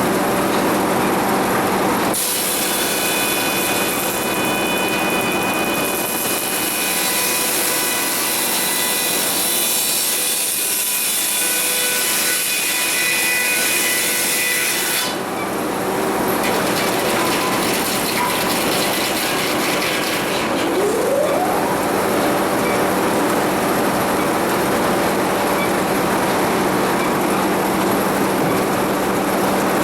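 Sawmill machinery running with a steady hum while the saw cuts a cedar log. A bright, high hiss of the blade in the wood starts about two seconds in and stops about halfway through.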